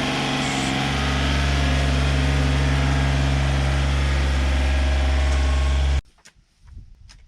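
John Deere 955 compact tractor's three-cylinder diesel engine running steadily, growing a little louder about a second in. It cuts off suddenly near the end, leaving only faint scattered ticks and taps.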